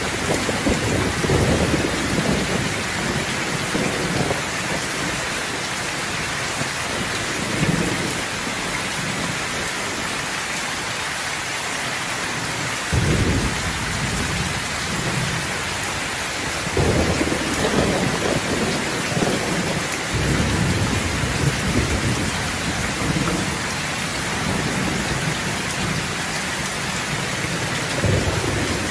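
Steady rain falling, with thunder rumbling low several times: a roll at the start, one that breaks in suddenly about halfway through, a longer one a few seconds after, and another near the end.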